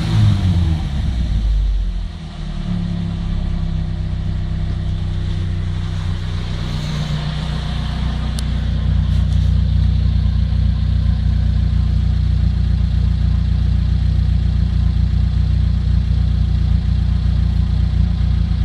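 Chevrolet Niva's 1.7-litre four-cylinder engine heard through a straight-through exhaust (4-1 header, catalytic converter removed, resonator, FOX straight-through muffler). The revs fall away in the first two seconds, then it idles steadily.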